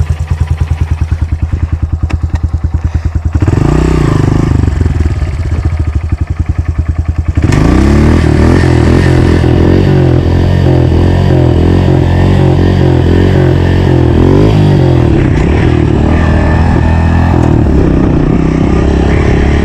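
Dirt bike engine idling with an even pulse, blipped once about three and a half seconds in, then opened up about seven seconds in and run hard, its revs rising and falling as the bike is ridden.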